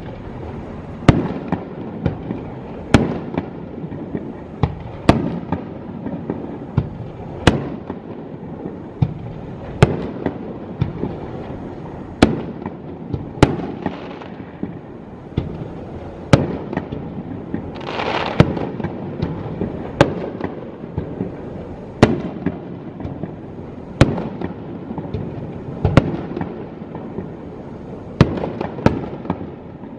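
Aerial firework shells bursting, a sharp bang every second or two with rumbling echo between them. A longer rushing hiss comes about two-thirds of the way through.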